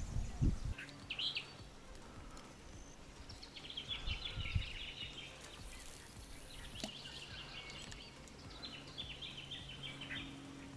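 Birds calling in the bush, with three bursts of rapid high trilled chirps over a faint low steady hum. A brief thump and rumble sounds at the very start.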